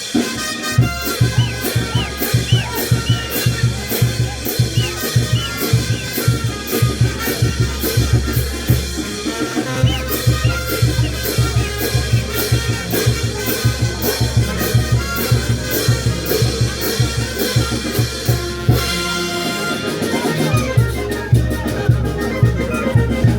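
Brass band playing a dance tune: trumpets and reeds carry the melody over a steady beat of drums and cymbals. The bass and low drums drop out briefly about three-quarters of the way through, then come back.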